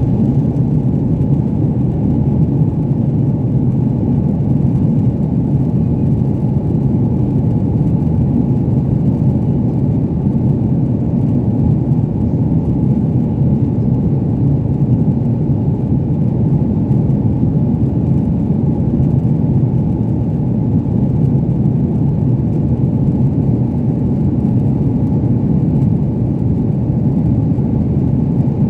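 Steady low roar of a passenger airplane, even in level throughout.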